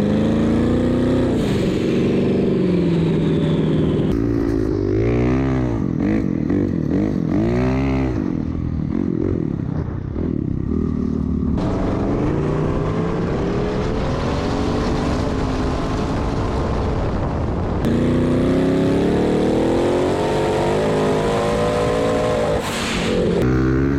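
Off-road vehicle engines revving up and down, with sweeping rises and falls in pitch as they pass. The sound changes abruptly three times.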